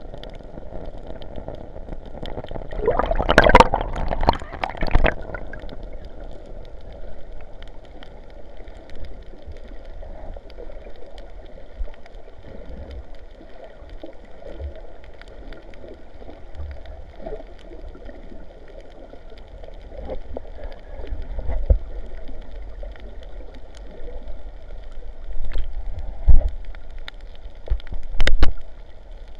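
Sea water gurgling and sloshing, heard muffled with almost no high end, with a few louder surges of water about three to five seconds in and twice near the end.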